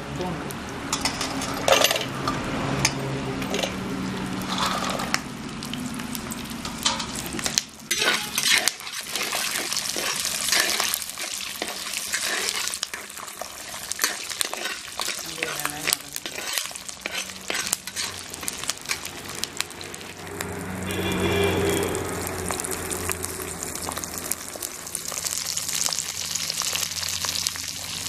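Shallots, garlic and dried red chillies sizzling in hot oil in a clay pot, with a metal spatula scraping and clicking against the pot as they are stirred.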